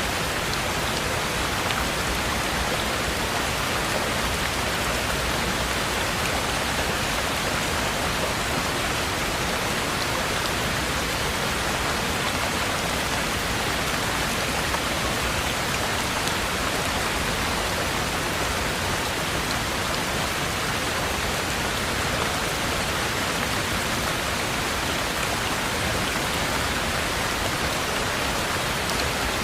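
Heavy rain falling steadily, an even hiss of rain with faint individual drop ticks.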